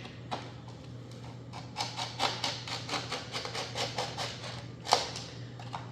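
A hand tool cutting away the edge of a laminate floor plank in quick repeated strokes, about five a second, with a sharper click shortly before the end, over a low steady hum.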